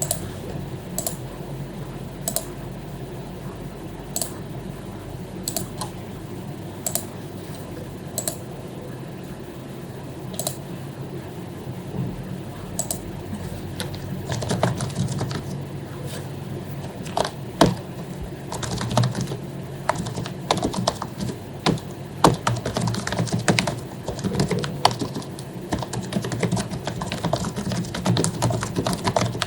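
Typing on an HP membrane keyboard with lubed keycaps. For the first half there are only single clicks about a second apart. From about halfway it turns into fast, continuous typing, with soft, muted keystrokes over a low background hum.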